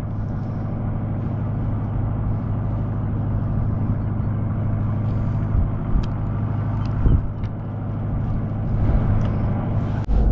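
Sailboat's Beta Marine 45 turbo diesel engine running steadily under way, with a couple of brief knocks in the middle.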